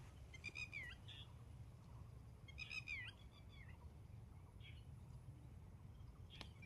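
Faint bird calls: two short calls, each ending in a falling note, about half a second in and again about three seconds in, with a few softer chirps between.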